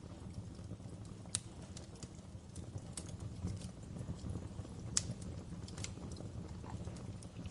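Wood fire burning in a fireplace: a steady low rumble with scattered crackles and pops, the sharpest about a second in and again about five seconds in.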